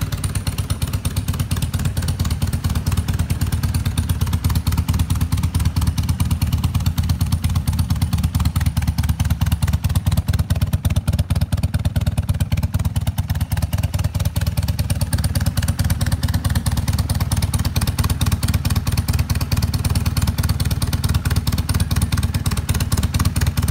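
BMW R100 RS's air-cooled boxer-twin motorcycle engine running steadily with a fast, even pulse.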